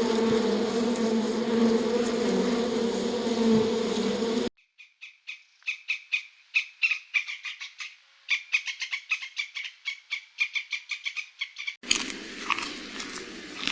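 A steady insect-like buzz that cuts off abruptly about four and a half seconds in, followed by rapid trains of short, high chirping calls, then a different sound starting abruptly near the end.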